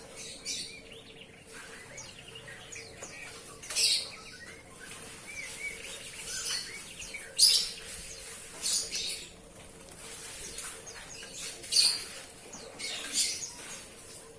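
Oriental magpie-robin (kacer) chirping and calling in short, high phrases, with several sharper, louder calls a few seconds apart.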